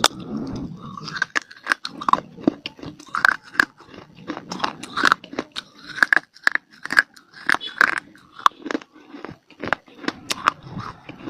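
Close-miked mouth crunching and chewing of hard baked clay (mitti): irregular sharp crunches, several a second, with wet mouth sounds between bites.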